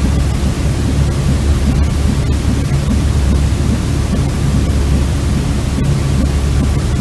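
Steady white noise for baby sleep, heavier in the low end, with an even level throughout.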